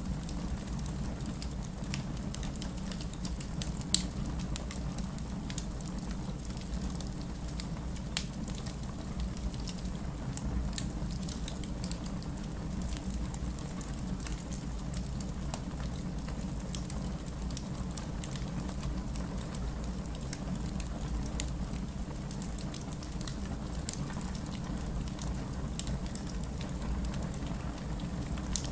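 Wood fire burning in a fireplace: a steady low rumble of flames with constant small crackles and scattered sharper pops, the loudest about 4 seconds in and another near the end.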